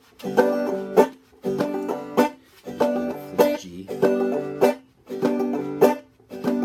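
Five-string banjo played in a clawhammer chop rhythm. Each cycle a struck chord rings briefly, then is killed by a palm mute with a sharp slap, about once every second and a bit.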